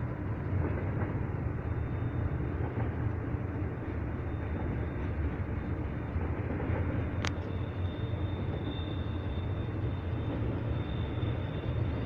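Freight train cars rolling past, a steady low rumble of wheels on rail, with one sharp click about seven seconds in.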